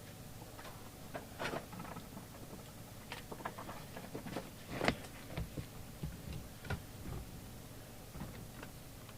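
Scattered small clicks and knocks of radio parts being handled on a workbench, one sharper knock about five seconds in, over a low steady hum.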